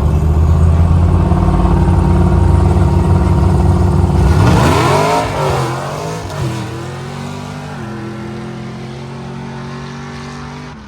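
A sand drag vehicle's engine running loudly with a deep, steady rumble. About four and a half seconds in it revs up and back down, then settles into a quieter, steady run.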